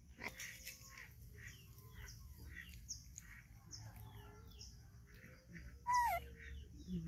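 Small birds chirping repeatedly in the background, with one louder call that slides downward in pitch about six seconds in.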